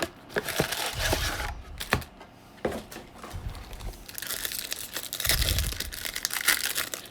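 Wrapper of a baseball card pack being torn open and crinkled, in two spells of crackling with small clicks in between.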